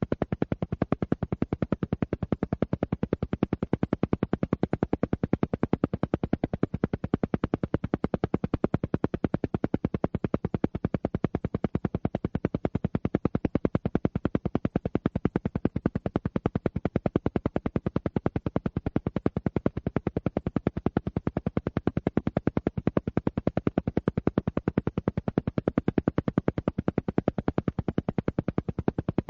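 Alpha-wave isochronic tone track: a rapid, perfectly even train of short sound pulses, many per second, going on without change.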